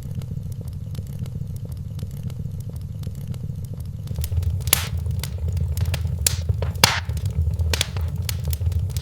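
Wood fire crackling in a fireplace over a steady low rumble of flames. The crackles are light at first, then several louder sharp pops come in the second half.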